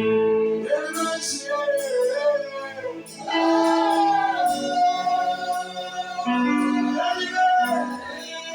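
Gospel worship song rehearsal: female and male voices singing over steadily held instrumental chords.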